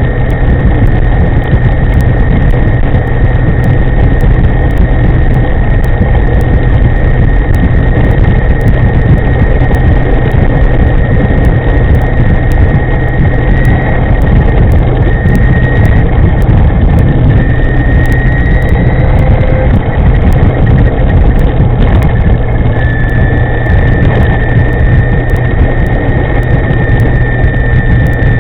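Wind rushing over the microphone of a moving electric scooter, with a steady high whine that wavers and shifts slightly in pitch after the middle.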